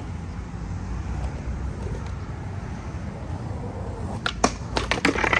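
Skateboard wheels rolling on concrete with a steady low rumble, then about four seconds in a quick run of sharp clacks and scrapes from the board's tail, trucks and deck hitting and landing.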